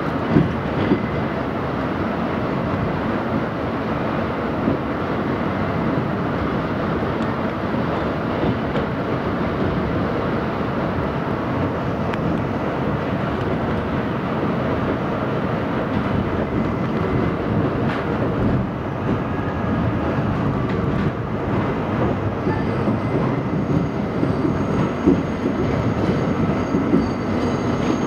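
R68 subway train running on the track: a steady rumble of wheels on rail with scattered clicks, and a faint high wheel squeal coming in near the end.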